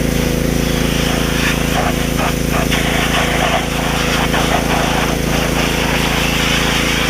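Pressure washer running steadily while its jet sprays water onto a motorcycle engine, the hiss and spatter rising and falling as the spray moves over the engine.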